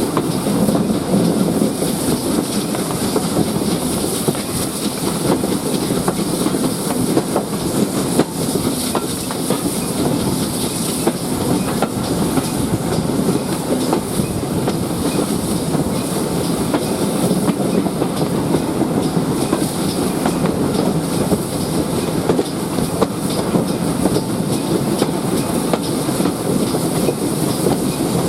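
Heritage train carriages running along the line at a steady pace: an even rumble with frequent clicks of the wheels over rail joints.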